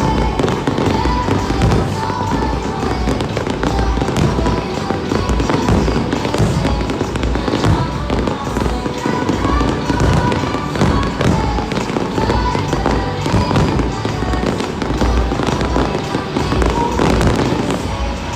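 Fireworks bursting and crackling in rapid, continuous volleys, with music playing underneath.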